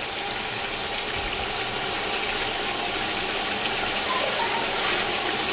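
Chicken pieces frying in hot ghee with whole spices in a steel pot, a steady sizzle that grows slightly louder.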